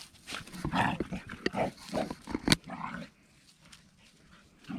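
A dog panting in short, irregular puffs, with one sharp click about two and a half seconds in. The panting stops about three seconds in.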